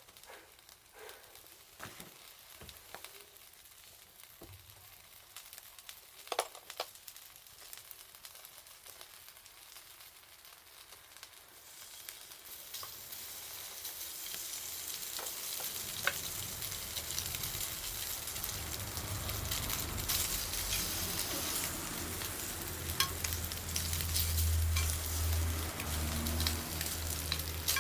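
Food sizzling over a campfire. A few scattered crackles and clicks at first, then a hiss that swells from about halfway in and keeps growing, with a low rumble underneath near the end.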